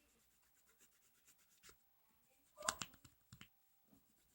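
Faint scratching of a felt-tip pen colouring on paper. A little past halfway comes a quick cluster of sharp clicks, the loudest sounds, then two or three softer ticks.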